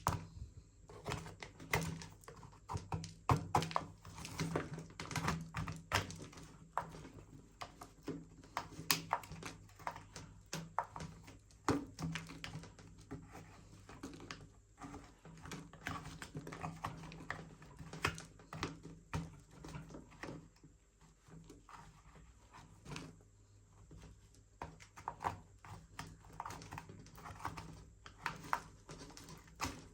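Irregular clicks, taps and rubbing of a plastic R/C toy car remote controller being handled and cleaned, over a low steady hum.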